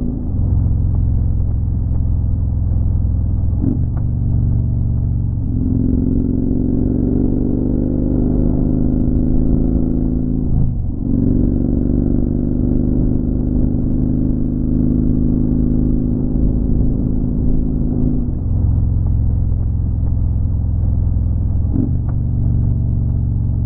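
Motorcycle engine running under way at a steady loud level. Its pitch rises slowly from about five to ten seconds in and shifts with brief dips near eleven and eighteen seconds in.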